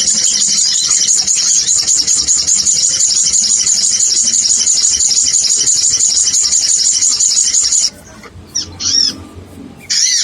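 Bird-lure recording of sogon calls: a dense stream of rapid, high twittering chirps that breaks off almost eight seconds in, followed by a few separate chirps.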